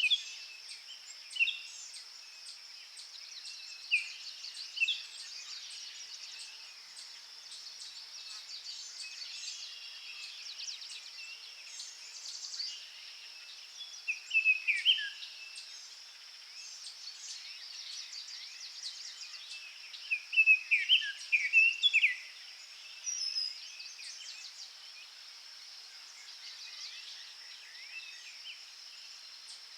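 Forest ambience of songbirds chirping and calling over a steady high insect-like buzz. The loudest bird calls come in short clusters, at about fifteen seconds and again between twenty and twenty-two seconds in.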